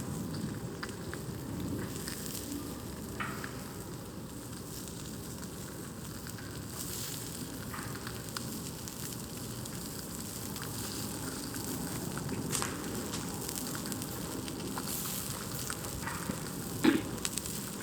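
Wood campfire burning: a steady hiss with scattered small crackles and one louder pop near the end.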